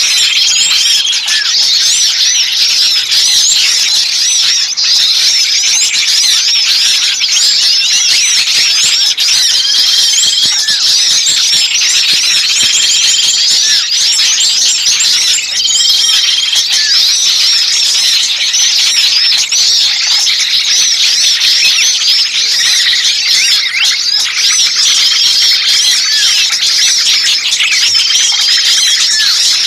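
Bird-lure recording of many small songbirds chirping and twittering at once, an agitated, excited flock of the 'burcil ribut kejepit' kind, used to draw wild birds in. A short level whistle note recurs every few seconds through the dense chatter.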